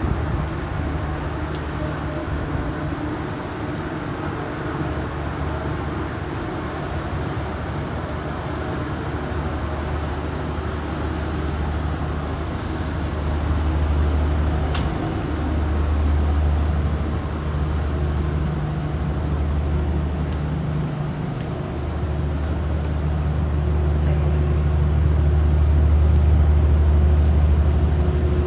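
Street traffic noise: a steady low engine rumble that dips briefly a couple of times and swells near the end, over a constant hiss.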